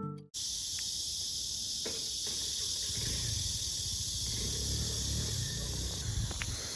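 A steady, high-pitched insect chorus of crickets, with a low rumble joining in about three seconds in.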